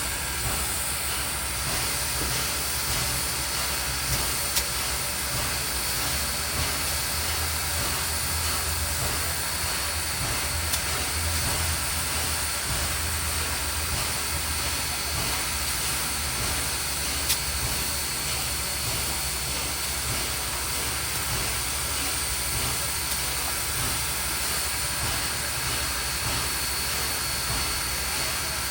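Train locomotive running steadily: a constant low rumble under a steady hiss, with a couple of faint clicks.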